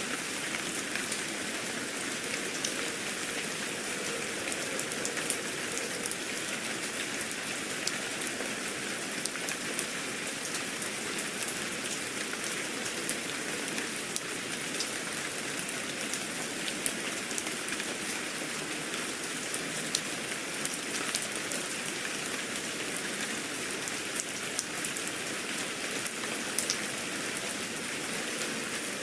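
Steady rain falling on a surface, a continuous hiss dotted with many small sharp drop ticks.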